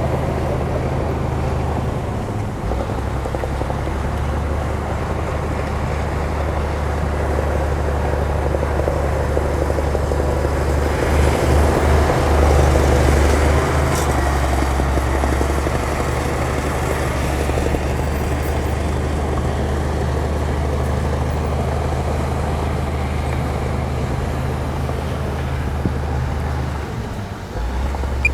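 Heavy earthmoving machine's diesel engine running steadily with a deep hum, growing louder near the middle as it works harder, then settling back, with a brief dip near the end.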